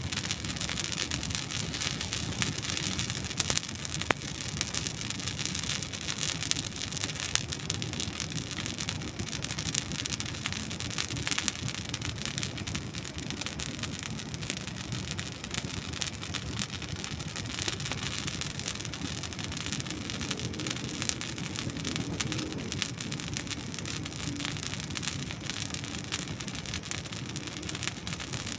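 Burning dry wood crackling steadily in a campfire: a dense run of small crackles with occasional sharper pops, a clear one about four seconds in.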